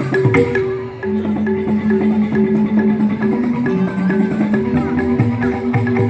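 Balinese joged bumbung gamelan playing: bamboo xylophones (grantang) ring out in quick repeated struck notes over a steady melodic line, with percussion strokes.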